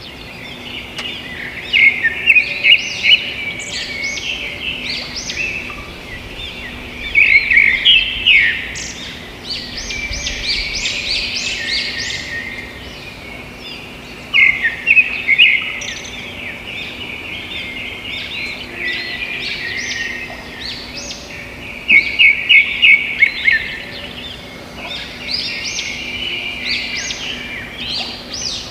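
Songbirds singing and chirping in a busy chorus. Loud runs of quick, repeated short notes come every six or seven seconds, over steady twittering.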